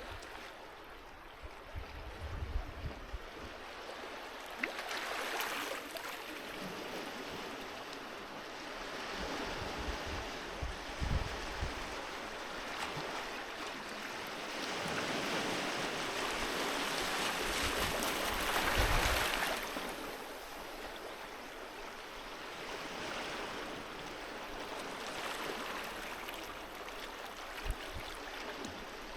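Sea waves washing onto a beach, the hiss swelling and falling back several times, with the biggest surge about two-thirds of the way through.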